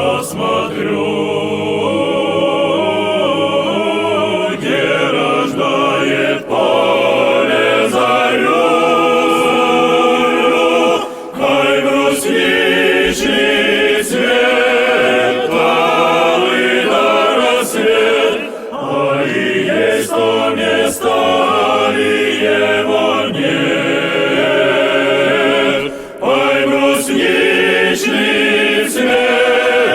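Music: a choir singing in several-part harmony, with short pauses between phrases.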